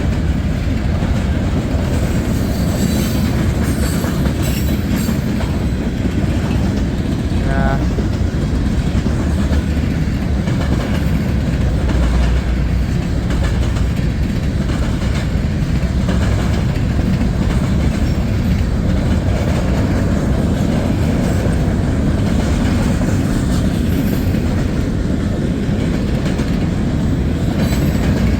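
Freight cars of a long CSX mixed freight train rolling past at speed, a steady heavy rumble of wheels on rail with clickety-clack over the joints as the train picks up speed. A brief wheel squeal comes about eight seconds in.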